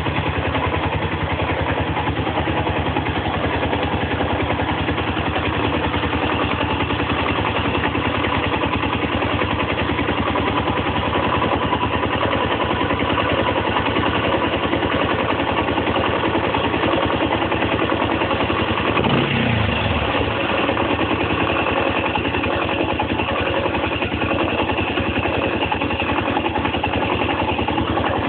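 Zongshen ZS250GS motorcycle engine idling steadily with an even, rapid pulse. It carries an extraneous noise that the owner is concerned about. About two-thirds of the way through there is a brief low swoop that dips in pitch.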